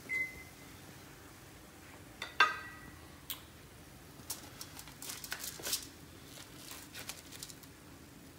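Metal kitchenware handled on a counter: a single ringing clank about two and a half seconds in, then a scattered run of light clicks and taps.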